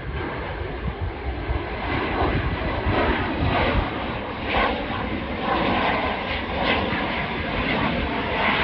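Airplane engines at takeoff power: loud, continuous engine noise that builds over the first second, with tones sweeping up and down in pitch as the aircraft passes.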